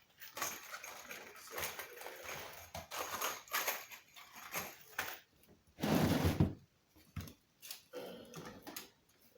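Cardboard shipping boxes being handled and moved: scattered rustling, scraping and knocks, with one loud thump about six seconds in.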